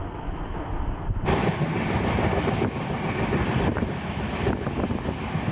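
Running noise of a moving passenger train heard from on board: a steady rumble with wheel clicks over the rail joints. It grows fuller and brighter about a second in.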